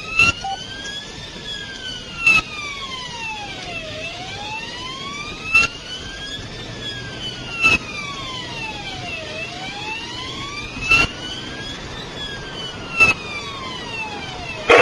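Police car siren on its slow wail, rising and falling about every five seconds, over steady road noise inside the pursuing police car. Short sharp knocks come every two to three seconds.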